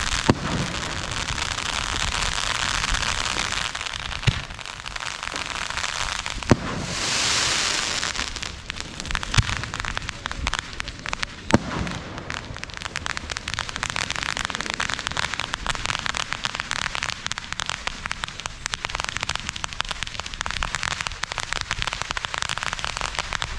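Fireworks going off: a steady crackling with a few sharp bangs, a hissing surge at about seven seconds, and dense rapid crackling through the second half.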